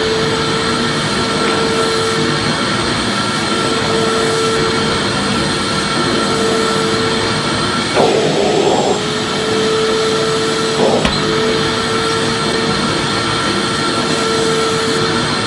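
Vacuum cleaner running steadily: a continuous rushing noise with a constant motor whine. There is a brief wobble in the sound about eight seconds in and a single click about three seconds later.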